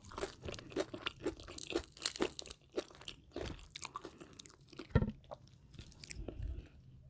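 Close-miked chewing of crunchy food, a rapid run of crisp crunches that thins out after the first couple of seconds, with one heavier crunch about five seconds in.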